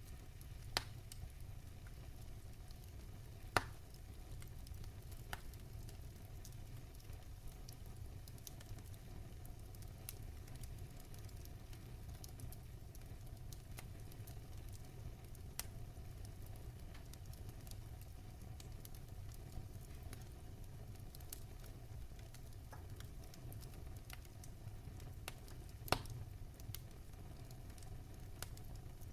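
Wood fire burning in a fireplace: a steady low rumble with scattered crackles and sharp pops, the loudest pops a little under a second in, about three and a half seconds in, and near the end.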